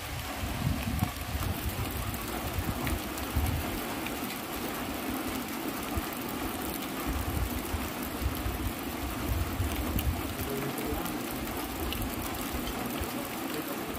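Steady rain, with gusts of wind buffeting the microphone as an uneven low rumble.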